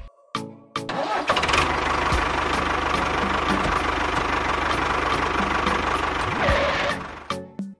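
A small engine starts about a second in, runs steadily with an even low firing pulse, then cuts out near the end.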